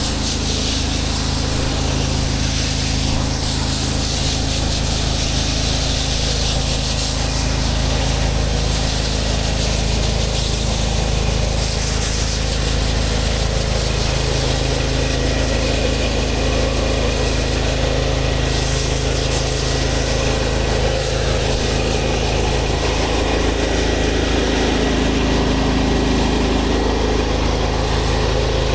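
Pressure washer running steadily, its engine humming under the hiss of the water jet rinsing a concrete driveway.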